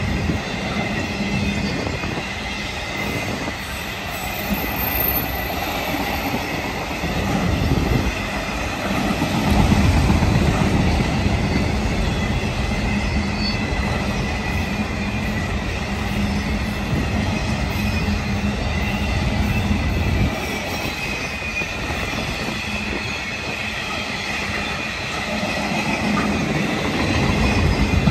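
Freight train of autorack cars rolling past: a steady rumble and clatter of steel wheels on the rails, with a thin, steady high squeal from the wheels over it. It swells about ten seconds in, eases off after twenty seconds and builds again near the end.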